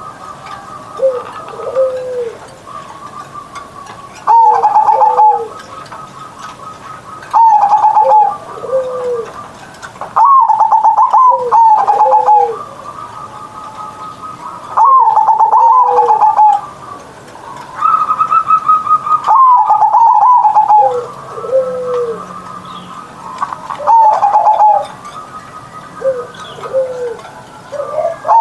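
Zebra dove (perkutut) singing its cooing song, a loud phrase of short staccato coos repeated about every three to four seconds.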